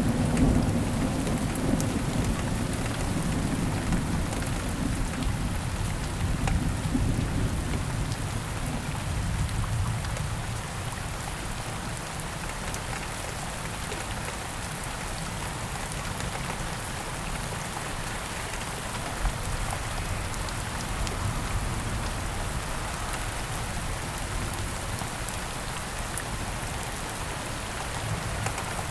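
Steady heavy rain with a low rumble of thunder that dies away over the first ten seconds or so, leaving the rain alone.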